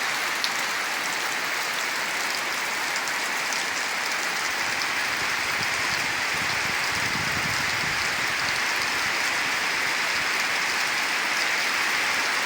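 Heavy rain falling steadily: a dense, even hiss with scattered drop ticks, and a brief deeper swell about halfway through.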